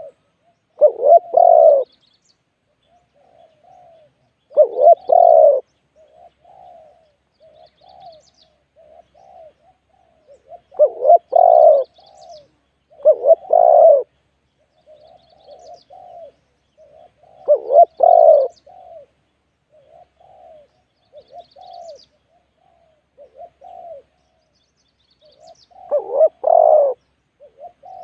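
Spotted doves cooing. Loud cooing phrases come every few seconds, with softer, shorter coos between them.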